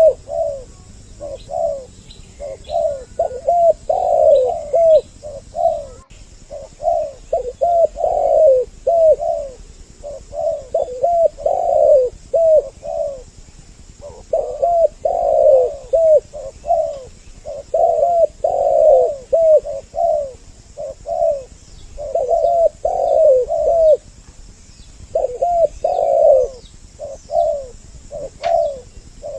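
Spotted dove (tekukur) cooing over and over, phrase after phrase in runs of a few seconds with short gaps, as on a dove-trapping lure recording. A few faint high chirps of small birds lie behind it.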